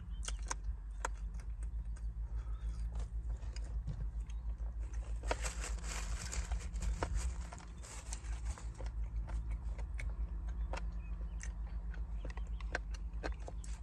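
Close-up chewing of fried chicken: scattered sharp mouth clicks and smacks over a steady low rumble. A broad rushing hiss swells about five seconds in and fades a few seconds later.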